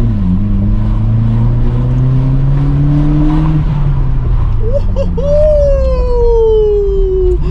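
Vauxhall Corsa D with a straight-piped Hornet exhaust accelerating, its engine note rising steadily for about three and a half seconds, then easing off. In the second half a separate long, high tone glides slowly downward over the engine.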